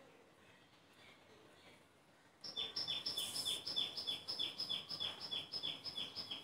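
A bird chirping in a fast, even series of short, high chirps, about three a second. It starts about two and a half seconds in, after near silence.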